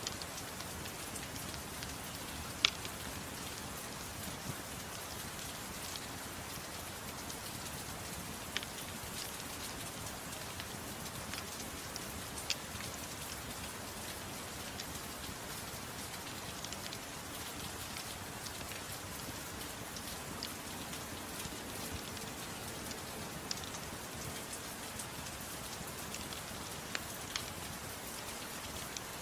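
Steady rain falling, an even hiss, with a handful of sharp pops scattered through, the loudest about three seconds in.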